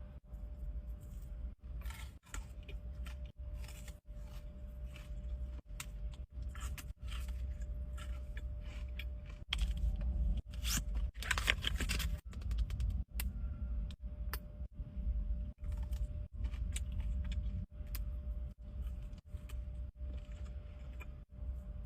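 Close handling of a Dubai chocolate bar and its wrapper: irregular crinkles, clicks and scrapes, busiest about halfway through, over a faint steady hum.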